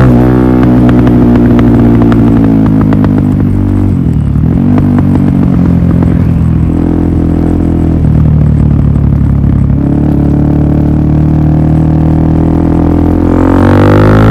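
Suzuki DR-Z400SM single-cylinder engine through a Yoshimura full exhaust system, running loud with a steady drone. The revs fall at the start and dip briefly twice, about four and eight seconds in, then rise again near the end.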